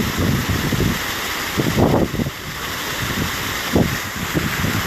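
Wind buffeting the phone's microphone in irregular gusts, the strongest about two seconds in, over a steady rushing hiss of water running through the canal lock.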